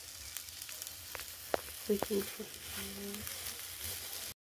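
Sliced onions and chopped green bell pepper sizzling in oil in a frying pan, with a few sharp taps of a spatula against the pan as they are stirred.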